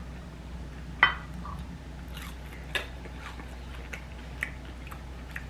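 Close-up eating sounds: chewing and biting, with a few short sharp clicks or crunches, the clearest about a second in, over a low steady hum.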